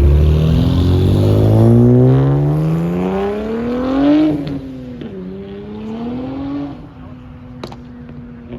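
A car accelerating hard away, its engine revs climbing steadily for about four seconds, dropping at an upshift, climbing again briefly, then fading into the distance.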